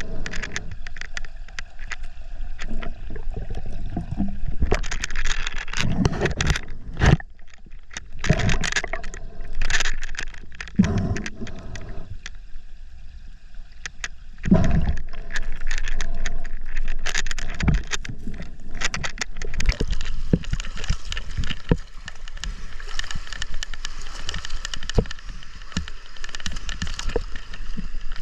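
River water gurgling and sloshing close to a GoPro's microphone, with irregular knocks and scrapes from handling gear in the water.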